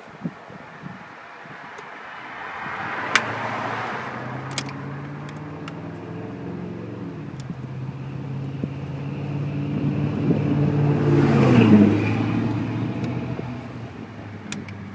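A passing car: its engine and tyre sound swells slowly to its loudest about twelve seconds in, the engine note dropping in pitch as it goes by, then fades away. A few sharp clicks sound a few seconds in.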